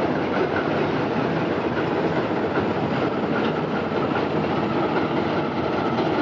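Railway wagons rolling along the track: a steady rumble of steel wheels on rails with a faint wheel squeal.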